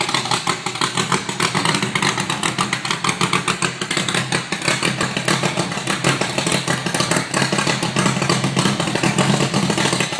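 NASCAR truck's 358 cubic inch V8 idling loudly with a steady, pulsing beat.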